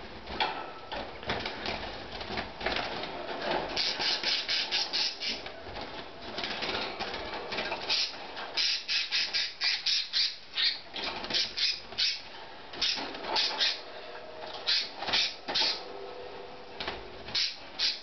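A caged pet bird calling in quick runs of short, harsh squawks, the runs denser in the second half.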